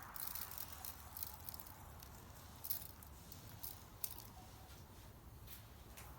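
Salt being sprinkled over a grilled beef steak: faint, scattered light ticks and patter of grains landing, about a dozen small taps spread over the few seconds.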